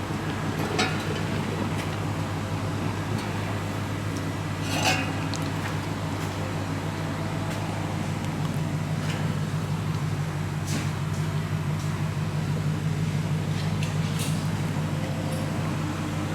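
Exhaust-shop work: scattered metal clinks and taps over a steady low mechanical hum, with a sharper knock about five seconds in.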